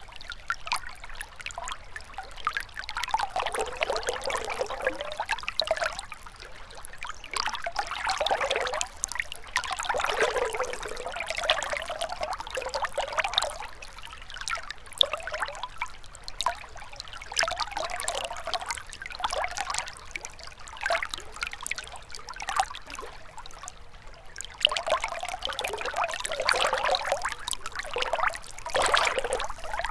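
Shallow river water trickling and gurgling over stones, in uneven surges every couple of seconds.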